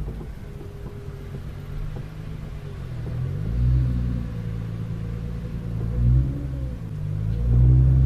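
Nissan GT-R's twin-turbo V6 under acceleration, its deep engine note climbing in pitch three times as it pulls through the gears, loudest near the end.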